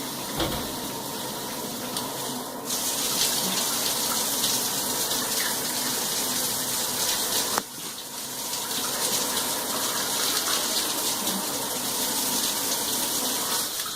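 Water spraying hard from a six-function shower head whose flow restrictor has been removed, giving high pressure. The spray sound changes about three seconds in and again after a click and a brief dip near the middle, as the spray setting is switched.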